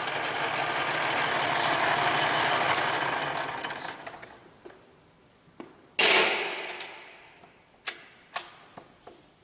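A shop machine coasting to a stop after its motor is switched off, its mechanical whirr fading away over about four seconds. About six seconds in comes one loud metallic clank, followed by a few light clicks and taps.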